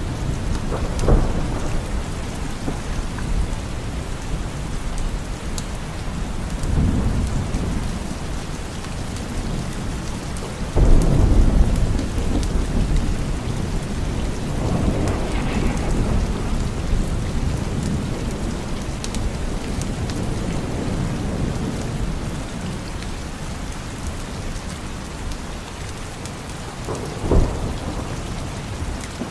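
Steady rain with repeated rumbles of thunder. The loudest is a sudden thunderclap about eleven seconds in, with shorter rumbles near the start, around the middle and near the end.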